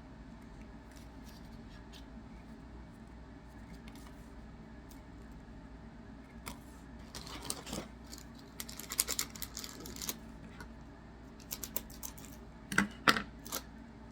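Trading cards being handled: faint room hum at first, then scattered rustles and clicks from about six seconds in, loudest near the end.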